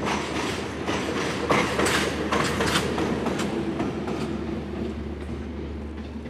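A passing train's wheels clattering over the rail joints, with a steady low rumble beneath. The clatter grows sparser and the sound fades over the last few seconds.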